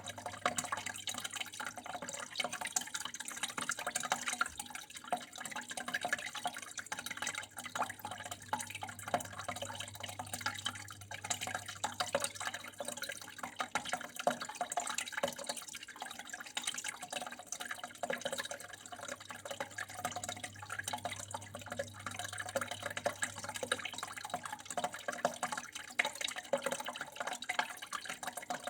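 Water flowing and trickling steadily, with a dense, irregular patter of drips and small splashes. A low, steady hum runs underneath.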